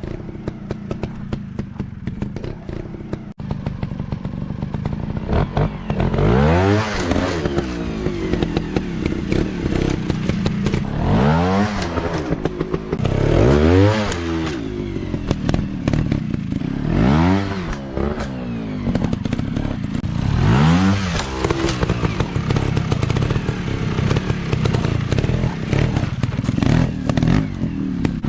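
Off-road dirt bike engine running at low revs, then revved up and down repeatedly, the pitch climbing and falling about five times while riding.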